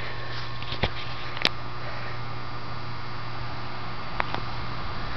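Packaged heat pump running in defrost mode, a steady low hum, with a few sharp clicks about one, one and a half and four seconds in.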